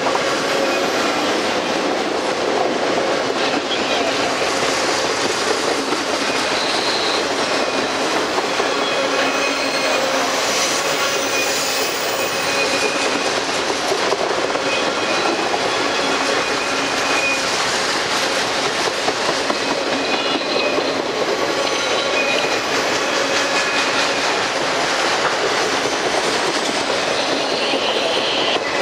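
Freight train of multilevel autorack cars rolling past, a steady noise of steel wheels on rail with thin, high wheel squeals running through it.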